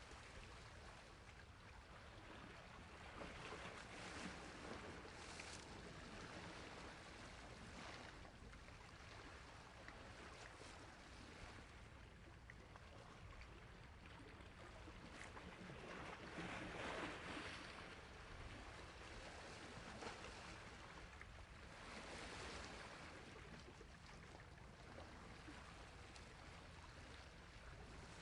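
Faint sea waves washing on a shore: a steady wash that swells and eases every few seconds, the biggest surge a little past the middle.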